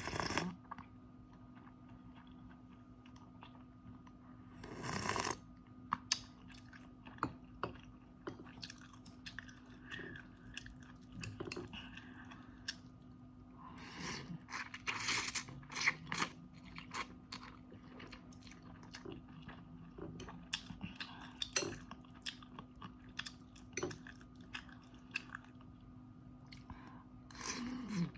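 Close-miked chewing and crunching of food, with many small sharp clicks and louder noisy bursts about five seconds in and again around fifteen seconds in, over a faint steady hum.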